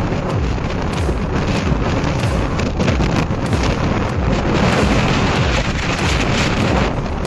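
Strong wind buffeting the microphone: loud, continuous rushing noise with uneven low rumbling gusts.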